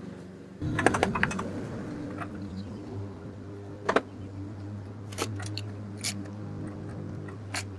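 Scattered sharp clicks and taps of metal parts and tools over a steady low hum that comes in about half a second in.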